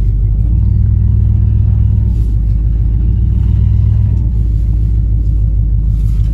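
1955 DeSoto Firedome's Hemi V8 running while the car is driven, heard from inside the cabin as a deep, steady engine note. It pulls harder from about half a second in and eases off after about four seconds.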